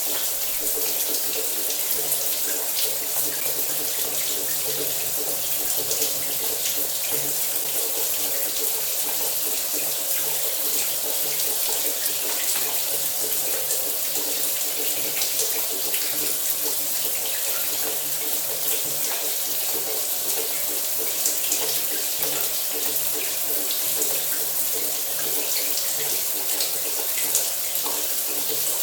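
Running shower: water spraying steadily, an even hiss with a faint low hum underneath and no breaks.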